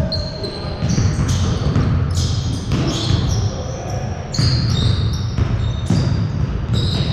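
Basketball dribbling on an indoor gym court during a scrimmage, with sneakers squeaking in short, high squeaks and players' voices in the background.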